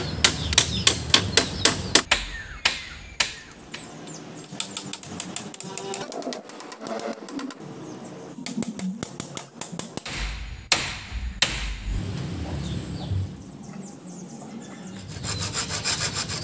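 Runs of rapid sharp taps, several a second, near the start and near the end, with a few single loud knocks between them.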